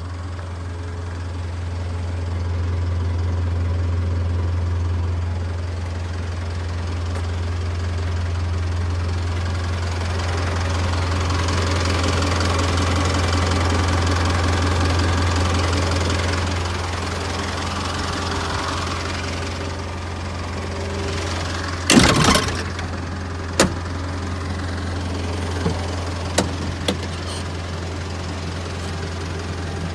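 Isuzu Elf light truck's engine running steadily, swelling louder twice, once early on and again around the middle. A sharp knock comes about two-thirds of the way in, followed by a few lighter clicks.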